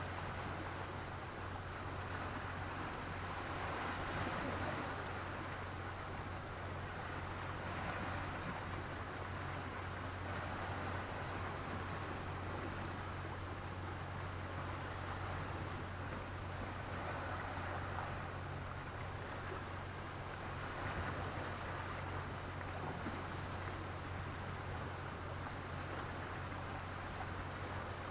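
Sea waves breaking and washing on a stony beach, the surf swelling and easing every few seconds.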